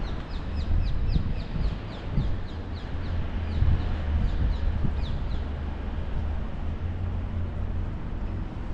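A small bird calling in a quick series of short, high, falling chirps, several a second at first, thinning out and stopping about five seconds in, over a steady low rumble.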